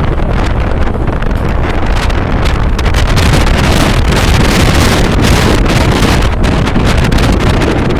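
Strong wind buffeting the microphone: a loud, steady rush with a deep rumble and irregular gusty thumps, as heard in footage shot at a rough seashore or at sea.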